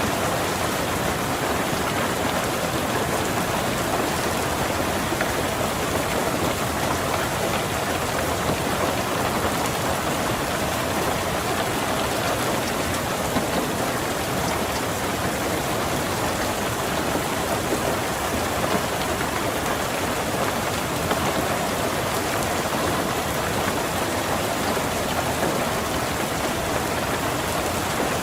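Steady rain falling on a car, heard from inside it: an even, unbroken hiss and patter with no thunder.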